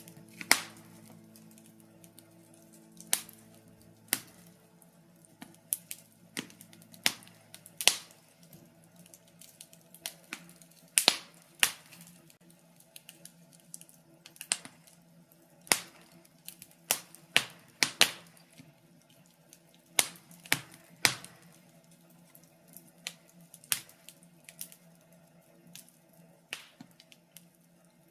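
Birch logs burning in a fireplace, crackling with irregular sharp pops and snaps, a few louder ones in a cluster about two-thirds of the way through, over a faint steady low hum.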